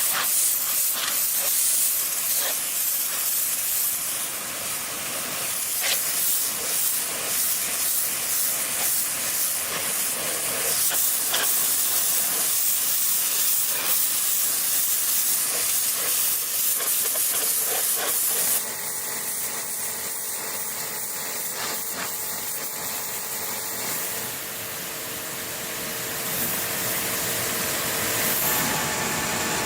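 A steady, high hiss with many sharp taps and knocks through it. About two-thirds of the way in, the sound changes abruptly to a quieter hiss with faint steady tones.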